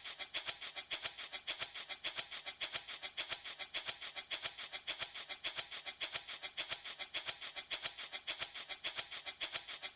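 Handmade baby rattle shaken in a steady, even rhythm, about five or six shakes a second, a dry high-pitched rattling hiss.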